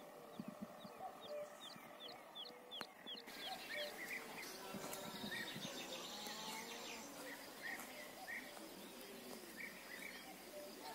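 Birds singing outdoors: at first one bird repeats a short high chirp about three times a second. Then, after a sudden change, a busier mix of many birds chirping over a steady outdoor hiss.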